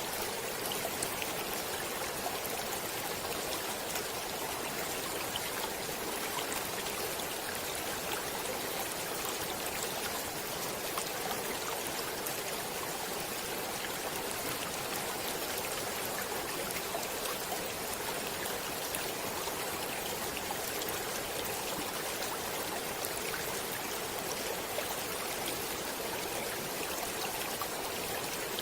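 Stream water running steadily, an even rushing sound with small splashes and ticks scattered through it.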